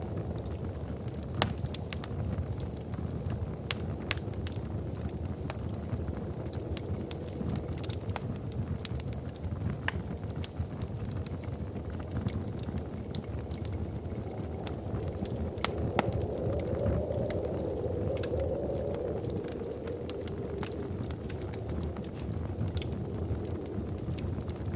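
Wood fire burning in a fireplace: a steady low rush of flames with sharp, irregular crackles and pops throughout, the rush swelling a little in the middle.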